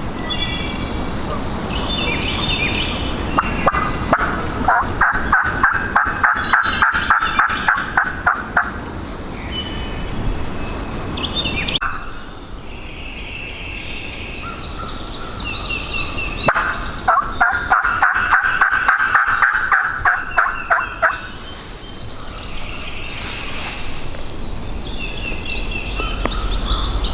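Wild turkey gobbling: two long rapid rattling gobbles, each several seconds long, with small birds chirping in between.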